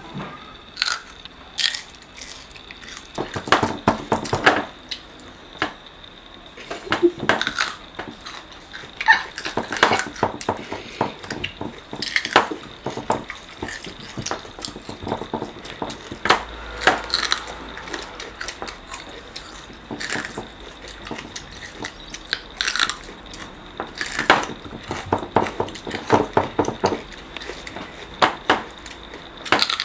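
Crisp crunching and chewing as raw green chili peppers are bitten into, in irregular sharp crunches with scattered light knocks at the table, over a faint steady high-pitched tone.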